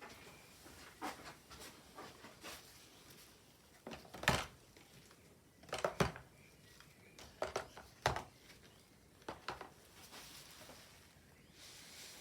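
Scattered light knocks and clatters of small objects being handled and set down on a hard surface, at irregular intervals, the loudest about four seconds in.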